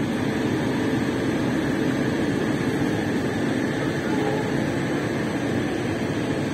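Steady rumble and hiss of a moving passenger train heard from on board at a coach window: wheels running on the rails, even and unbroken.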